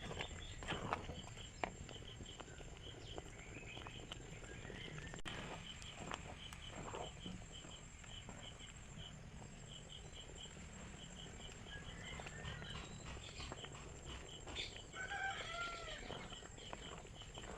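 Faint outdoor animal sounds: a high chirp repeating about twice a second over a steady high tone, with a short bird call about 15 seconds in.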